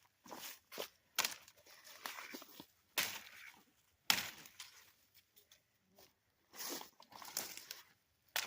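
Large folding knife blade chopping into small, twiggy oak branches: a series of sharp chops roughly a second apart, with leaves and twigs rustling and snapping between them.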